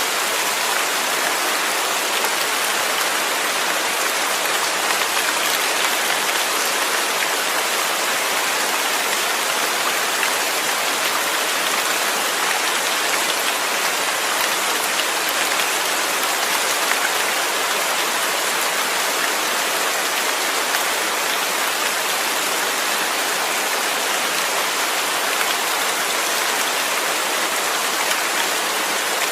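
Steady rain falling on a surface, an even, dense hiss of drops that holds at the same level throughout.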